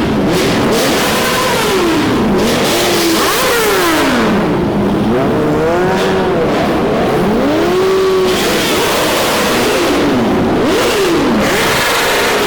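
Several car engines revving over and over, their pitch rising and falling in overlapping sweeps over a steady rumble.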